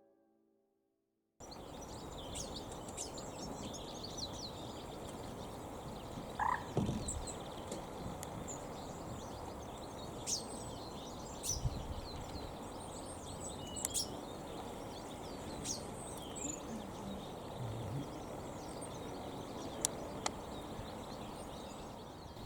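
Outdoor ambience by a loch: a steady hiss with scattered short bird chirps and calls, starting after about a second and a half of silence.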